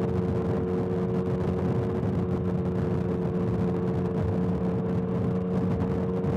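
Motorcycle engine running at a steady highway cruising speed, its pitch unchanging, over a steady rush of wind and road noise.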